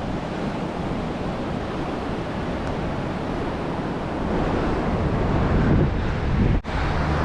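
Pacific Ocean surf washing steadily on the beach, with wind buffeting the microphone. The sound drops out for an instant near the end.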